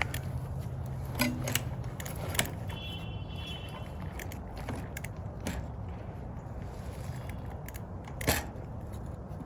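Scattered sharp clicks and knocks of metal bike parts being handled as an e-bike's rear wheel is fitted back into the frame, over a steady low background rumble; the loudest knock comes near the end.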